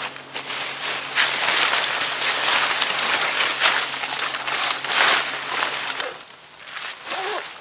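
Loud rustling and crunching with irregular sharp crackles, over a low steady hum that cuts off suddenly about six seconds in.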